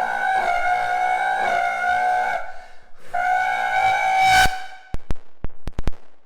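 High-revving car engine held at steady high revs, twice with a short break between, then a string of sharp exhaust pops and crackles after the throttle is released.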